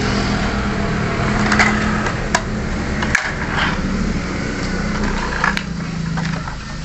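Battery-powered toy truck's small motor humming steadily, with a few light clicks from the toy being handled.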